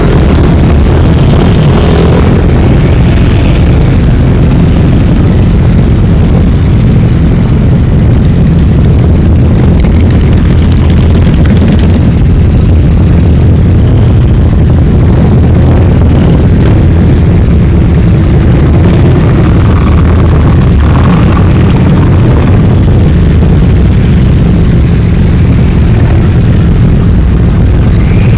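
A continuous stream of motorcycles riding past, their engines loud and unbroken throughout.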